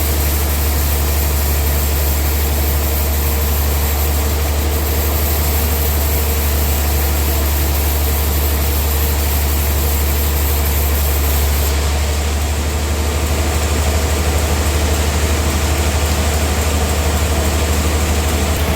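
Sawmill machine's engine running steadily with a heavy low hum and a hiss above it. The high hiss drops away about twelve seconds in.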